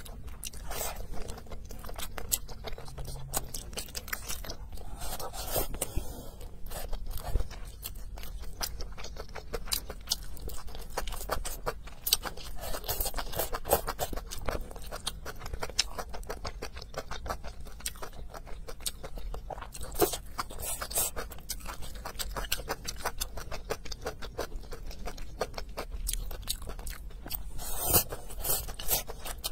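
Close-miked eating sounds: wet chewing, smacking and small crunches of bean sprouts, glass noodles, greens and braised pork, going on without a break. A louder burst comes near the end as a chopstick-load of noodles and sprouts goes into the mouth.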